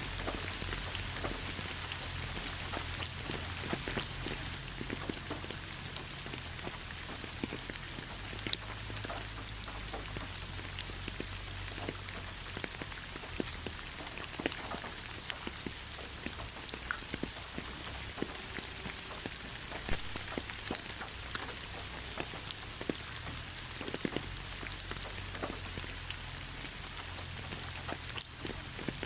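Steady rain falling, an even hiss with many separate drops tapping sharply on surfaces, over a low steady rumble.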